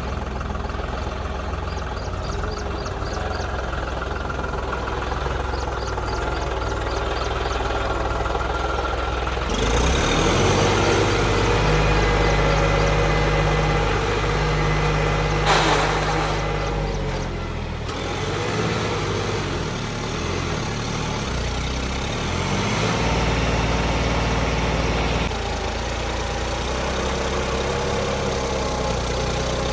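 Diesel tractor engine running steadily. About ten seconds in it revs up louder for several seconds, with a brief sharp noise in the middle, then drops back. It swells again briefly later on.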